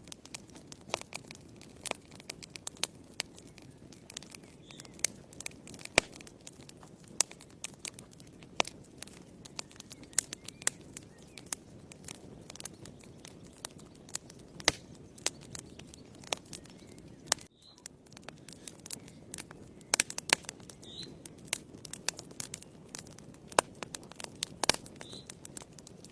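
Wood fire in a fireplace crackling, with irregular sharp pops over a low steady rumble of the flames. The sound cuts out for a split second about two-thirds of the way through.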